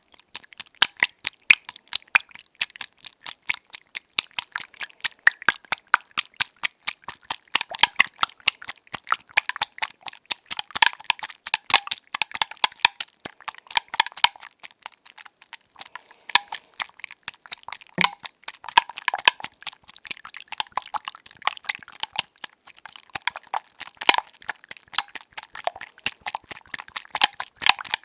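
Eggs being beaten in a bowl: a fast, continuous run of wet clicking and tapping, with a short lull near the middle and one louder knock about two-thirds through.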